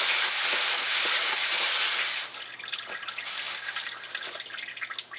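Used engine oil pouring from the drain-plug hole of a Ram's oil pan into a drain pan, a steady splashing stream that about two seconds in drops to a lighter, broken dribble and drips as the pan empties.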